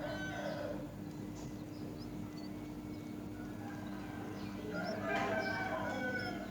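A bird calling twice: a call trailing off in the first second and another long call about five seconds in, over a steady low hum.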